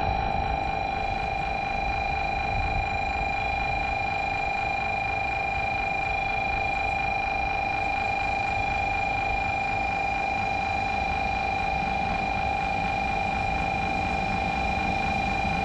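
A steady high-pitched tone sounds throughout, over a low background rumble. Near the end, a low rumble starts to build as a 500 series Hello Kitty Shinkansen train approaches along the platform.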